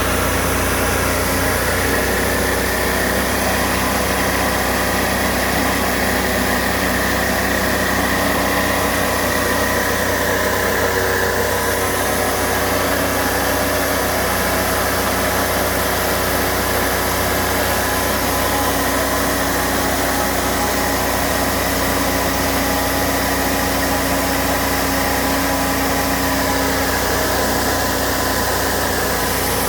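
Diesel engine of a high-pressure pipe- and sewer-cleaning washer running steadily just after being started, at an even speed throughout.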